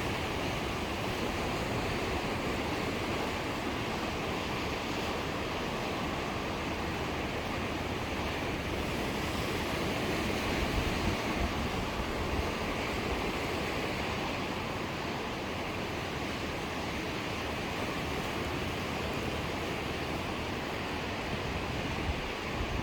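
Sea surf washing steadily onto the shore, swelling slightly about halfway through.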